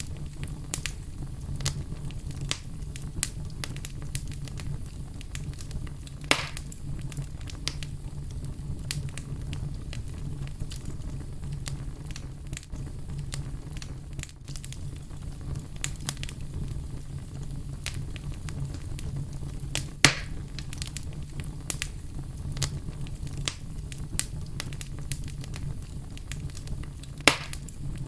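Fire crackling steadily with many small snaps and a few sharper pops, the loudest about twenty seconds in, over a steady low rumble.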